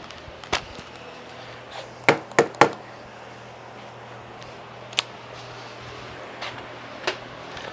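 Scattered sharp clinks of hand tools on steel, a socket and wrench working on the steering parts of a lawn tractor. There are three quick clinks close together about two seconds in, and single ones elsewhere, over a faint steady low hum.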